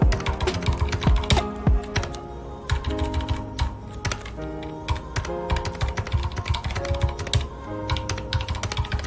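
Typing on a mechanical keyboard with red linear switches: a fast, irregular run of key clicks and thocks, over soft background music with held notes.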